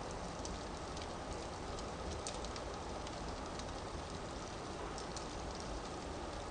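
Wood fire burning in a fireplace: a steady hiss and low rumble with scattered small crackles and pops.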